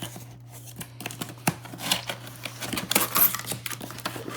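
Cardboard box being handled and opened: scattered clicks, small knocks and rustles of cardboard flaps and packaging, over a steady low hum.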